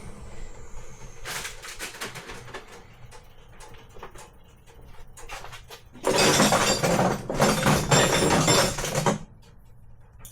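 Hand tools and metal parts clinking and clattering during engine-bay work, with a louder stretch of rattling and rummaging from about six to nine seconds in.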